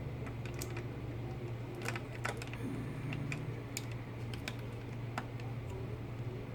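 Small plastic toy parts clicking and tapping as they are handled and snapped together, a series of light, irregular clicks over a steady low hum.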